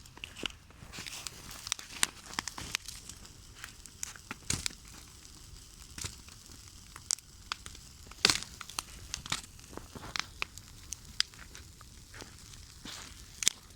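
Bonfire of wood crackling: irregular sharp pops and snaps, the loudest about eight seconds in.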